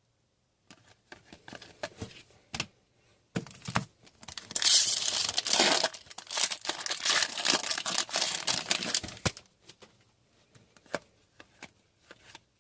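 A foil trading-card pack being torn open, its wrapper crinkling loudly for about five seconds from the middle of the stretch, with small handling clicks before and after.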